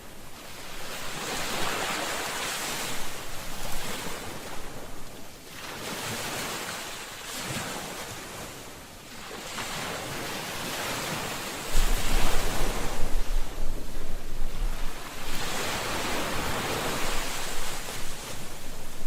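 Ocean surf: waves breaking and washing in one after another, swelling and fading about every four to five seconds. A little past halfway, wind starts rumbling on the microphone and the sound gets louder.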